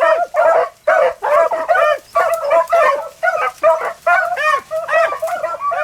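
A pack of beagles baying on a rabbit's trail: short, arching yelps from several dogs overlapping, two to three a second without a break.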